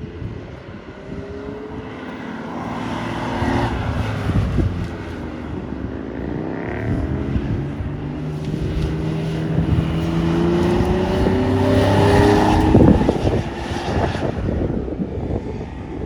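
Car engines driving past on a street, the sound swelling and fading with each pass; the loudest pass comes about thirteen seconds in.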